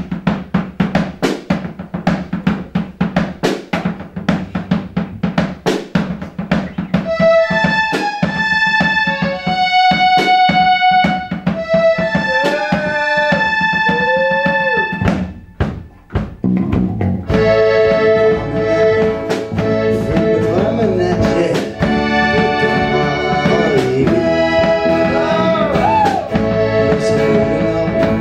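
Live band playing an instrumental intro: a drum kit keeps a steady beat, a melody line of held and sliding notes comes in about seven seconds in, and the full band with sustained chords and bass joins a few seconds past the halfway point.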